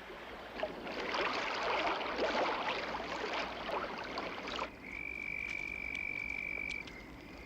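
Film sound effects: a dense rattling, crackling noise that cuts off suddenly about four and a half seconds in. A thin, steady high-pitched whine follows, broken once briefly near the end.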